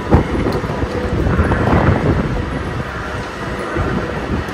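A train rumbling in an underground railway station: a steady low noise, with one sharp knock just after the start.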